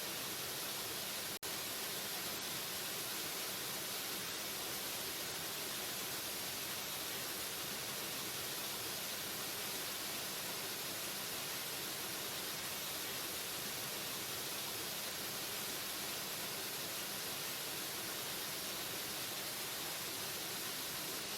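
Waterfall: a steady, hissing rush of falling water that cuts out for an instant about a second and a half in.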